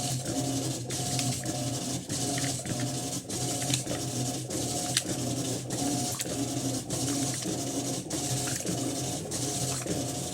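Electrolux LT12 12 kg top-load washing machine agitating: the motor hums and the agitator churns the water in even strokes, roughly three every two seconds.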